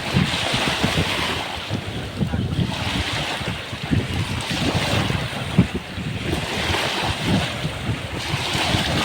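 Black Sea surf breaking and washing up the beach, the hiss swelling and fading every few seconds, with wind buffeting the microphone underneath.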